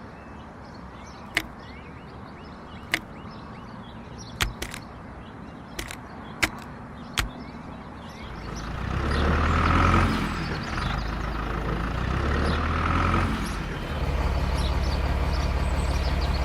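Several sharp clicks, then a vehicle engine that starts running about halfway through, low-pitched and steady, swelling and easing off twice.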